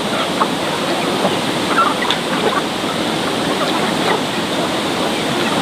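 Heavy rain falling steadily, an even loud hiss.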